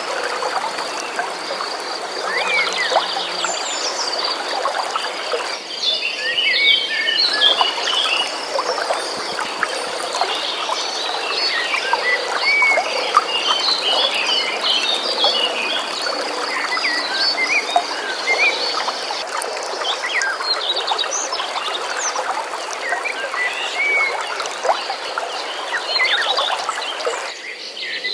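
Flowing stream water with a dense chorus of short chirping animal calls and a steady high trill running through it.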